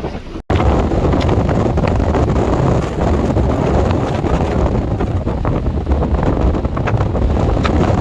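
Strong nor'easter wind buffeting the microphone: a loud, dense, rumbling roar of wind noise. It starts abruptly after a brief dropout about half a second in.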